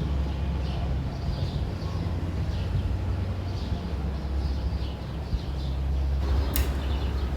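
Steady low hum with faint high chirps scattered through it and a single sharp click near the end.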